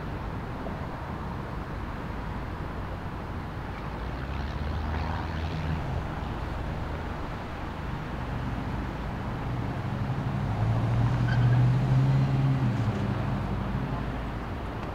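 Low engine rumble of a passing vehicle, swelling briefly about five seconds in and more loudly from about ten to thirteen seconds in before easing off.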